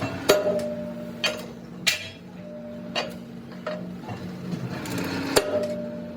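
Hammer blows on a steel truck wheel rim plate: about six sharp, irregularly spaced metal strikes, some leaving a brief ring, over a steady low hum.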